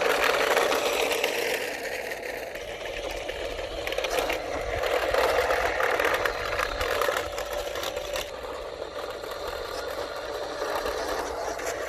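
Small electric motors and plastic gearboxes of a toy radio-controlled construction vehicle whirring steadily, with some rattle and clatter of the plastic parts.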